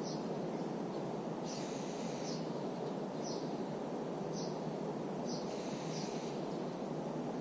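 A songbird giving short, high chirps about once a second, over a steady low background rush.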